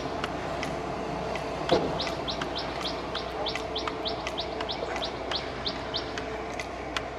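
A bird calling a rapid series of short, high, downward-sliding notes, about four a second, in two runs, over a steady machine hum. A single knock sounds about two seconds in and is the loudest moment.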